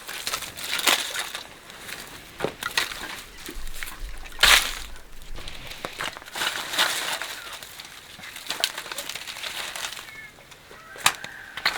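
Irregular rustling, scraping and knocking of hands-on work, with one louder crunch about four and a half seconds in. A chicken calls briefly near the end.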